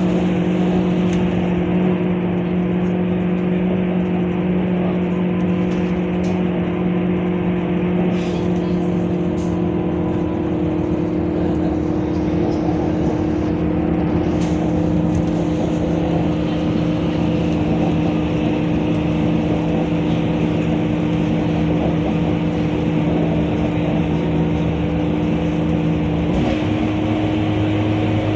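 Scania K230UB city bus running under way, a steady engine hum that holds its pitch for most of the time. Near the end the pitch drops suddenly to a lower hum.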